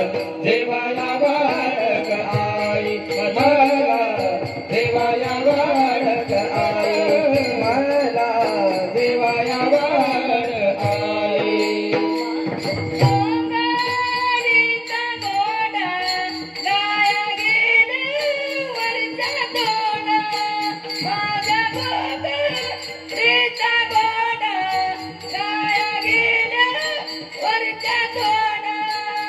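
Marathi gavlan devotional song sung over instrumental accompaniment with a held drone and jingling percussion. About halfway in, a high, strong voice takes up the melody.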